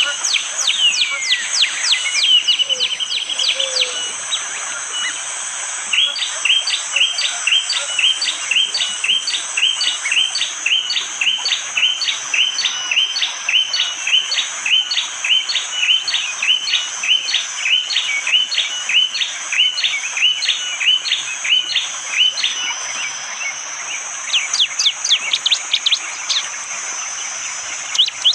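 Prenjak jali, a prinia, calling with its hard, sharp burst call: a rapid run of falling notes at the start, then a long, even series of repeated chip notes at about two a second, and another rapid run near the end.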